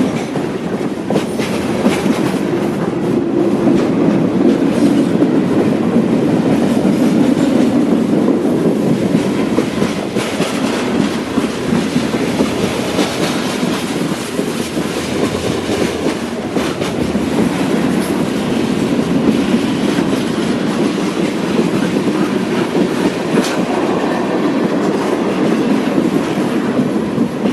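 Mixed freight train's cars rolling past at slow speed, a steady loud rumble of steel wheels on rail with scattered sharp clicks as wheels cross rail joints.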